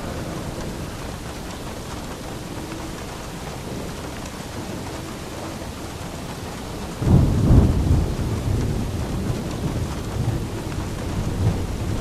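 Steady rain falling, with a clap of thunder breaking in about seven seconds in as a loud deep rumble that slowly dies away.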